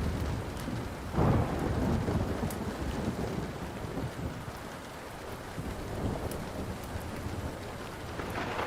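Thunder rumbling over steady rain, with a sharper peal about a second in that dies away over several seconds and builds again near the end. Light pops and crackles of a wood fire sound throughout.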